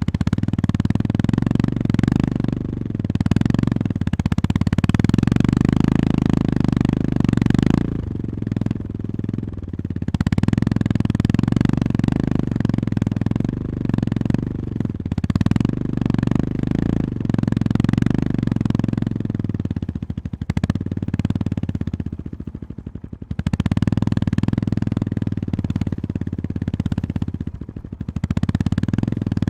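Honda GB350S single-cylinder engine pulling under way on a rough forest track, the throttle opening and closing. It eases off briefly about eight seconds in and for a few seconds past the twenty-second mark, then picks up again.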